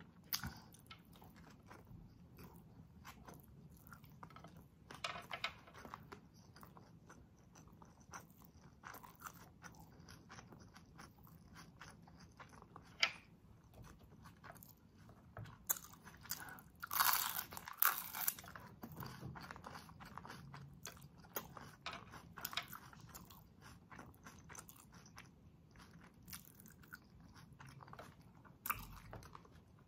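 Close-miked eating sounds: wet chewing with small clicks, and a cluster of loud, crisp crunches a little past halfway as a fried lumpia spring roll is bitten, then more chewing.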